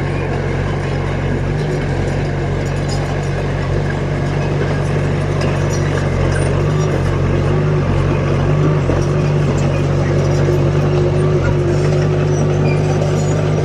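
Diesel engine of a heavy earthmoving machine running steadily, with a thin whine held above the low engine note.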